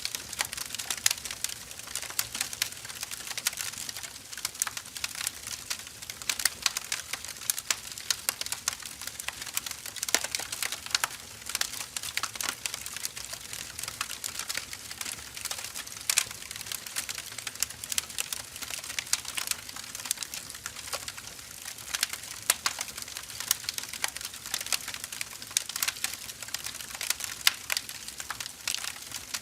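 Firewood burning in a fire: a steady stream of crackles and sharp pops over a soft hiss.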